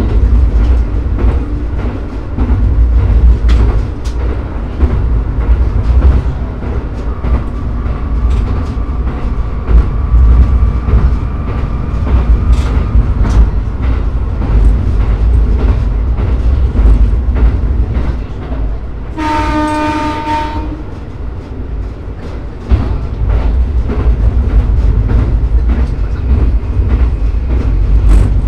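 Shimabara Railway diesel railcar running on jointed track, heard from the cab: a steady low running rumble with the clicks of rail joints. About two-thirds of the way in, the train sounds its horn once, about a second and a half long.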